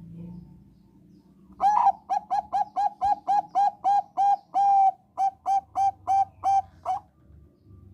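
Zebra dove (Thai-bred perkutut bangkok) singing: a fast run of short, clipped cooing notes, about three a second, starting about a second and a half in and stopping about a second before the end, with one slightly longer note in the middle.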